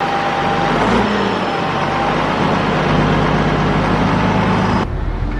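Komatsu D21P bulldozer's diesel engine running steadily under load. The higher hiss drops away abruptly near the end while the engine sound carries on.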